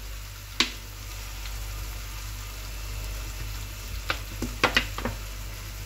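Chopped capsicum, tomato and green chilies sizzling gently in oil in a nonstick pan, with a sharp click about half a second in and a few light clicks near the end as sauce is added.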